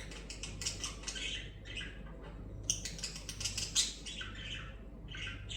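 Budgerigars chattering: rapid short chirps and squawks in busy clusters, over a steady low hum.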